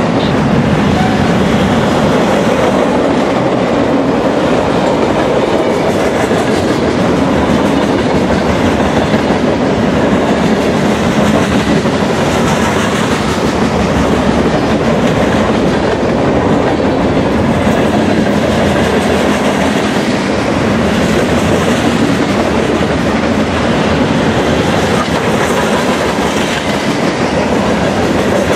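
Freight train cars rolling past close by: a steady, loud rumble and clatter of steel wheels over the rail joints and grade crossing of rough, worn track.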